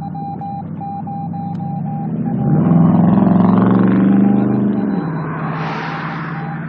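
A motor vehicle drives past close by. Its engine grows louder over a couple of seconds, then drops in pitch and fades as it goes by, followed by a rush of tyre and road noise.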